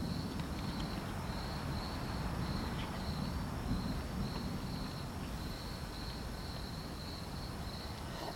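Insects chirping in regular pulses, about two a second, over a steady low rumble of storm noise.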